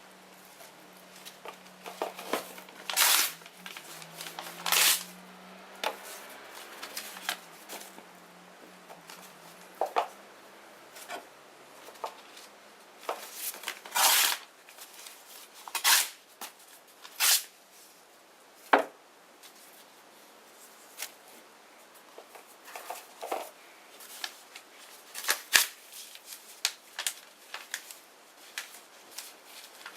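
Small bonfire crackling, with irregular sharp pops every second or so, a few of them louder and drawn out.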